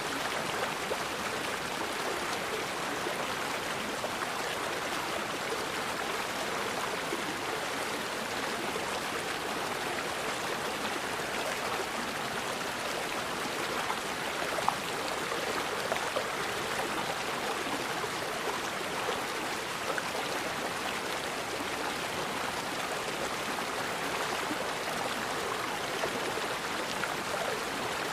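River water flowing and splashing steadily over rocks, a continuous even rush.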